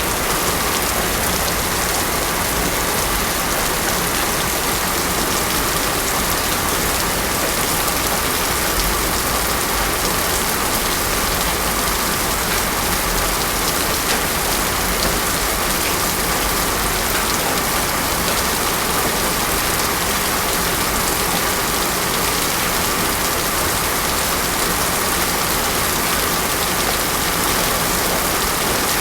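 Heavy rain falling steadily on a road, an even unbroken hiss with no thunder.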